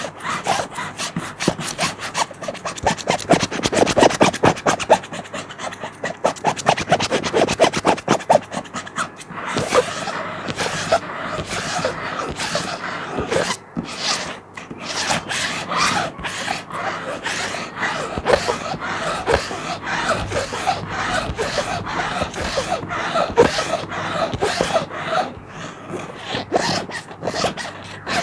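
Plastic sheet being scratched in quick, closely packed strokes, a continuous crinkly rasp.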